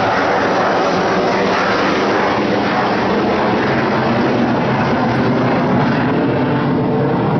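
BAE Hawk jet trainer flying past, its jet engine giving a loud, steady roar.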